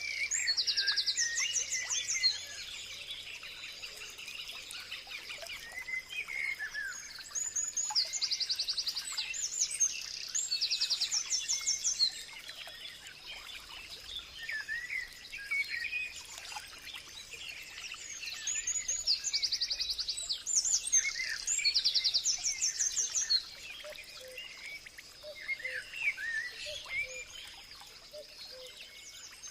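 Several birds singing and chirping. Three times, a loud bout of very fast, high repeated notes lasts a few seconds, over a faint steady high tone.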